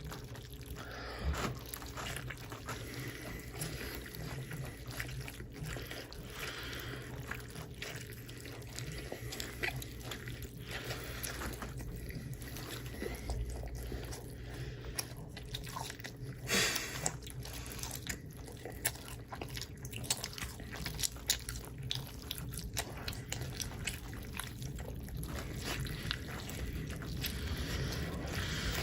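Close-miked chewing and biting: many short, irregular clicks and wet mouth sounds over a steady low hum.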